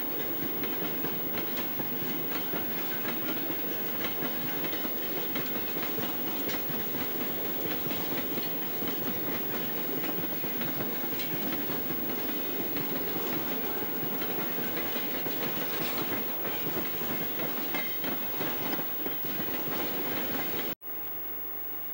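A freight train of empty flat wagons rolling past close by, wheels running on the rails with scattered clicks. It cuts off abruptly near the end, giving way to a quieter steady noise.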